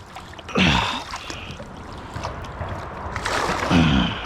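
Water splashing and sloshing around a small boat as a hooked bowfin is worked free of weeds and brush, with two louder surges: about half a second in and near the end.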